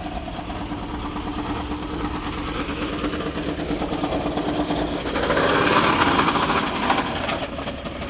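2008 Honda Ridgeline's 3.5-litre V6 running rough with a fast, dense clatter, which gets louder about five seconds in; the engine is blown.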